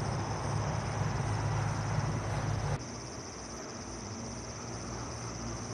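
Steady, fast-pulsing high chirring of an insect chorus at dusk, over a low rumble that cuts off suddenly about three seconds in.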